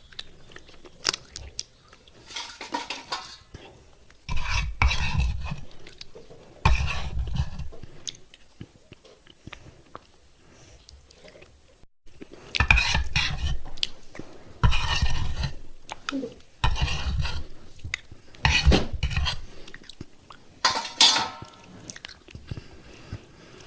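Close-miked crunching and chewing of hard fired-clay pot shards, in bursts of about a second every couple of seconds, with a quieter few seconds in the middle.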